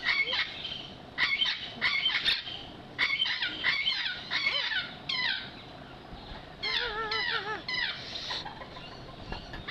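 Birds calling: clusters of short, squeaky, repeated calls, with a lower, wavering call about seven seconds in.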